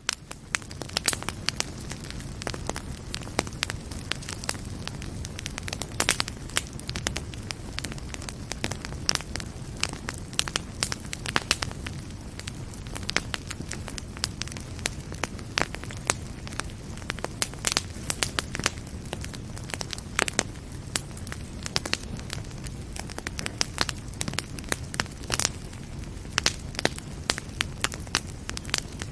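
Fire in a fireplace crackling, with frequent sharp, irregular pops over a steady low rumble of the flames.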